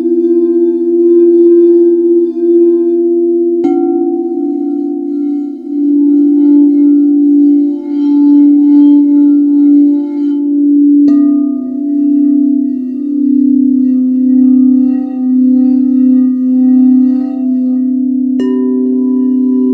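Singing bowls ringing in long overlapping tones with a slow wavering pulse. They are struck three times, each strike adding a new pitch.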